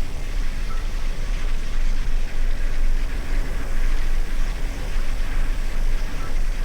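Steady wind rumble over the microphone and tyre noise from a gravel bike riding at speed.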